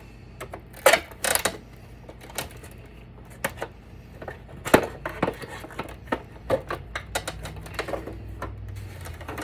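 Irregular clicking and knocking of hand tools against the hard plastic case of an APC battery backup as it is worked apart, a clatter of small sharp knocks with a few louder ones.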